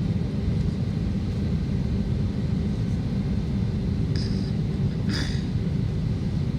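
Airliner cabin noise while the jet taxis: a steady low rumble from the engines and the rolling plane. Two brief hisses break in about four and five seconds in.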